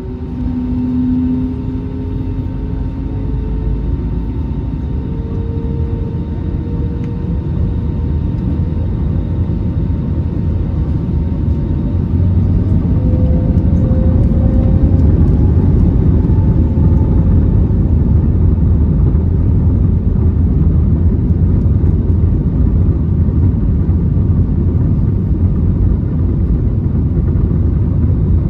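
Airbus A320neo takeoff roll heard from inside the cabin: the engines spool up with a whine rising in pitch over the first several seconds, and a deep rumble builds until about twelve seconds in, then holds steady and loud as the jet accelerates at takeoff thrust.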